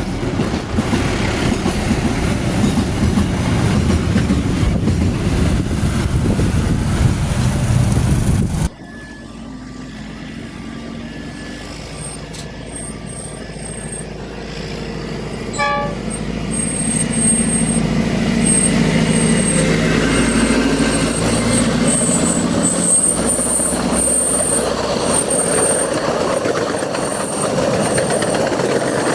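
Diesel-hauled passenger train running past close by, its loud rumbling running noise cutting off suddenly about nine seconds in. Another train then approaches: a short horn toot about halfway through, then running noise building steadily with thin high-pitched tones coming and going.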